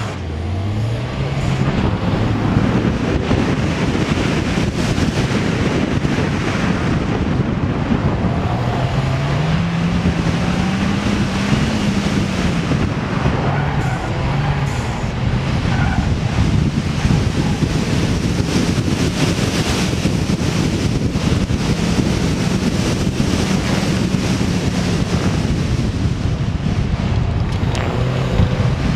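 A small street car's engine working hard through an autocross run, revs climbing and dropping every few seconds, over steady wind and road noise on the microphone.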